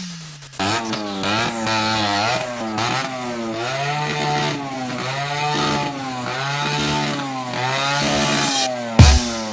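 A motorcycle engine revving up and down over and over, a sample in the break of an electronic dance track. A heavy bass beat comes back in about nine seconds in.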